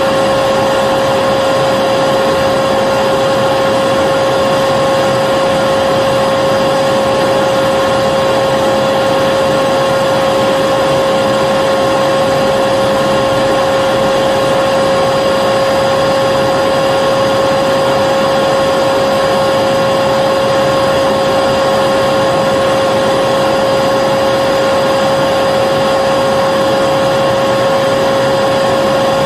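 Vacuum cleaner motor running at constant speed, a steady rushing hiss with a high whine on top.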